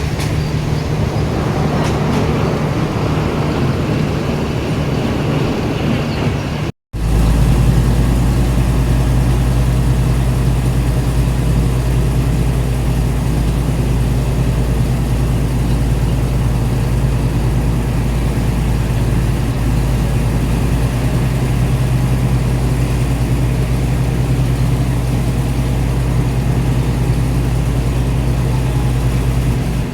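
Diesel train running, a steady engine drone with rumble. It cuts out briefly about seven seconds in, then returns louder and deeper.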